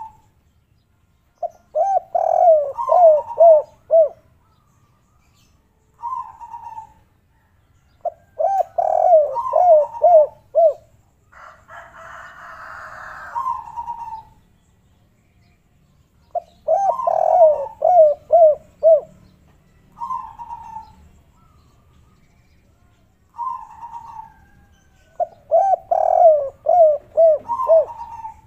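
Spotted dove cooing its 'kuk 3' song, repeated several times: each phrase is a short higher coo followed by a quick run of four or five lower coos. A brief hiss comes in about halfway through.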